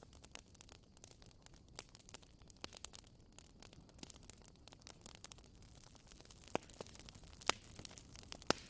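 Bonfire crackling: irregular sharp pops and snaps from the burning wood over a soft hiss, with a few louder pops in the last couple of seconds.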